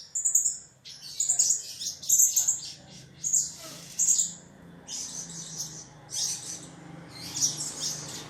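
Kemade, a small songbird, giving rapid high-pitched chirping calls in short clusters, about one or two a second, as used to lure other kemade into answering.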